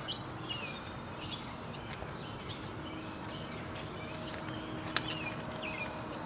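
Small birds chirping faintly outside, scattered short high calls over a steady background hush, with a single sharp click about five seconds in.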